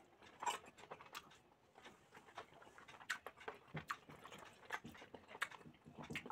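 Quiet chewing with small irregular mouth clicks: a person eating a mouthful of rice.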